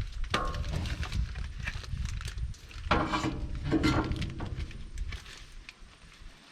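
Metal clanks and scraping from work on a tractor's PTO shaft and its fittings, with the loudest knocks about three and four seconds in, over a steady low rumble.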